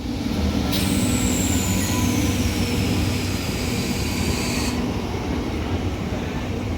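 MEMU electric multiple-unit train running by, a steady rumble of wheels on the track. From about a second in until near five seconds, a high hiss and a thin whine that slowly falls in pitch ride over the rumble.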